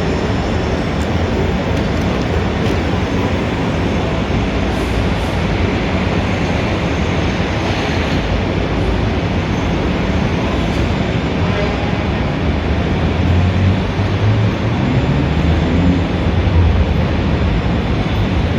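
Dense Times Square city traffic: a steady wash of street noise over a low engine rumble. About two-thirds of the way through, a heavy vehicle's engine grows louder and rises in pitch as it passes.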